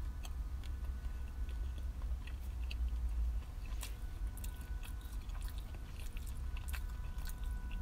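A person chewing a mouthful of toasted ham and cheese sandwich, with small irregular mouth clicks, over a steady low rumble.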